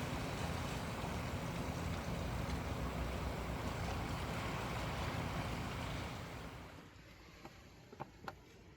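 Ocean waves washing on the shore with wind rumbling on the microphone. The sound fades out about seven seconds in, leaving a quiet stretch with a few faint clicks.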